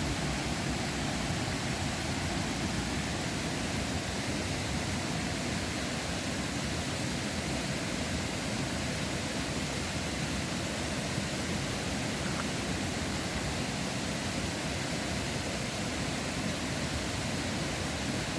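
A river flowing with a steady rushing sound.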